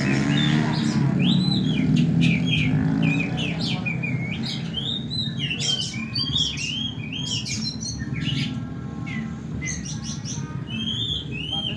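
Several Oriental magpie-robins (kacer) singing over one another: a dense run of quick arching whistles, chirps and sharp calls, over a steady low murmur.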